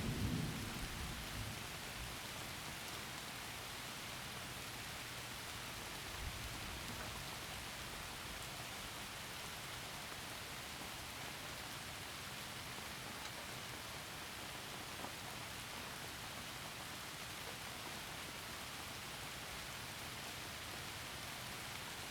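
Heavy rain falling steadily through forest trees, an even hiss. A roll of thunder dies away in the first second or two, and a faint low rumble of thunder comes about six seconds in.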